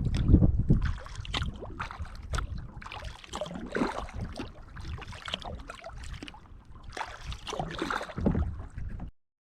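Kayak paddle strokes in the water: irregular splashing and dripping over a low rumble that is loudest in the first second. The sound cuts off abruptly near the end.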